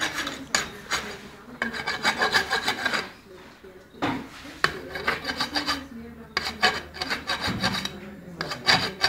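Farrier's rasp filing a horse's hoof: several runs of quick rasp strokes with short pauses between them.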